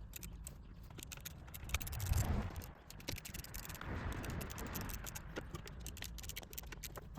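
Hand work on a small engine's casing: scattered clicks and ticks of tools and screws, with scraping, rattling swells about two seconds in and again around four seconds as the cover is worked loose.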